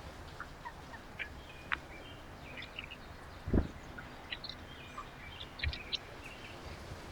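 Birds chirping in short, scattered high notes, with a thump about three and a half seconds in and a softer one near the end.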